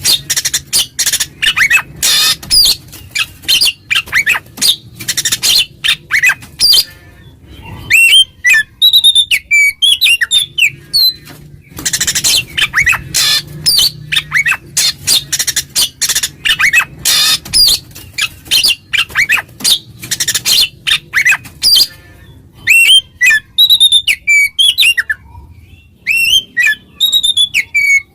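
Oriental magpie-robin (kacer) singing loudly, calling out a rival: long runs of rapid, harsh chattering notes alternating with clear whistled notes that slide up and down, with a brief pause about seven seconds in.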